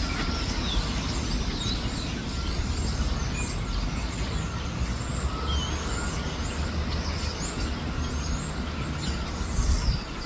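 Small birds chirping, with many short, high calls scattered throughout, over a steady low rumble.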